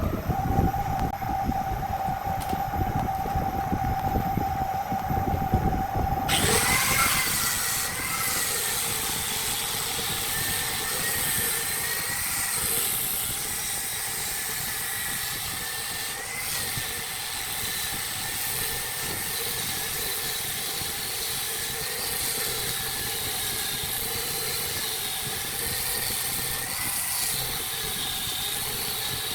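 Wood lathe running with a steady whine. About six seconds in the sound changes abruptly to a louder, hissier running sound with a wavering high whine, which then continues steadily.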